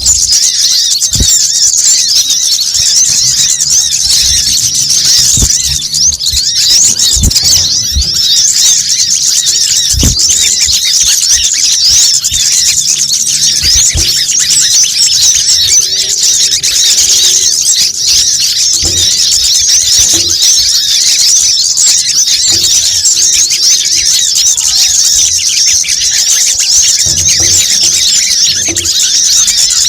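Dense, continuous chorus of high-pitched, rapid sunbird chirps and twitters from a bird-lure recording of kolibri kelapa, sogon and kemade calls.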